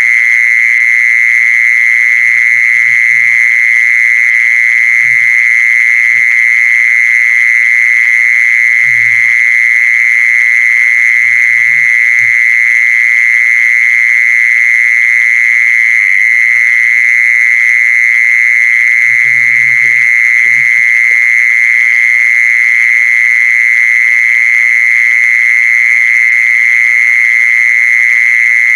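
Animal lure call: a continuous high-pitched buzzing drone, with short low calls every few seconds.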